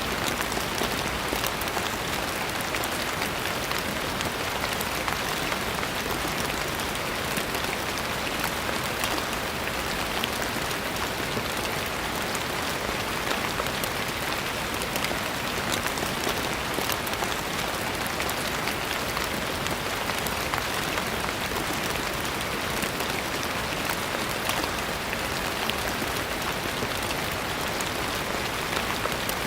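Steady rain falling on a surface, a dense even patter of many fine drops.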